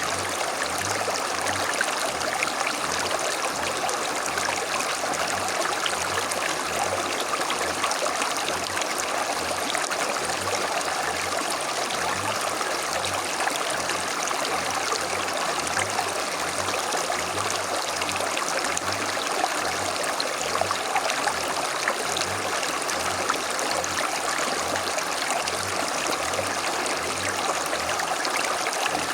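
Creek water running over stones, a steady babbling and trickling with no change in level.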